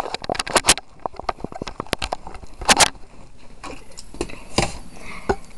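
A quick run of sharp clicks and knocks, dense in the first second and then scattered, like small hard objects being handled.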